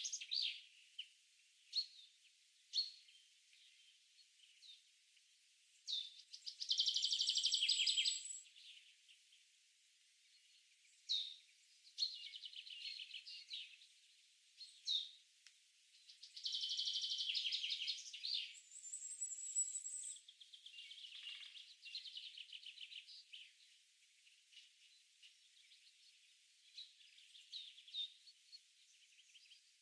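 Faint birdsong: scattered short high chirps with two longer fast trills, separated by quiet gaps.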